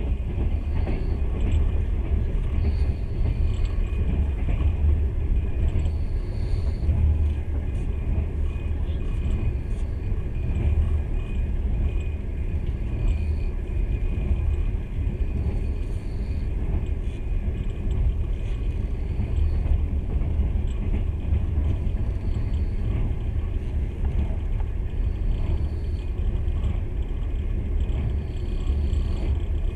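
Passenger train in motion, heard inside the carriage: a steady low rumble of wheels running on the rails, with no break or change.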